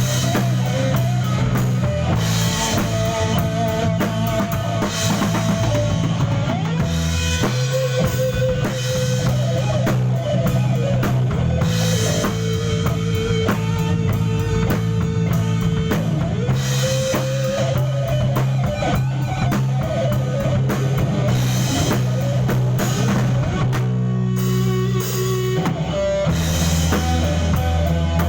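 A band playing live: a drum kit keeping a steady beat under a bass line and guitar, with a melody line wavering over the top.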